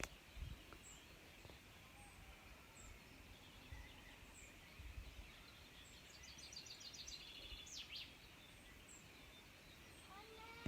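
Faint outdoor birdsong: a small bird repeats a high chirp about once a second, and a short quick trill comes about two-thirds of the way through. Soft low rumbles sit underneath.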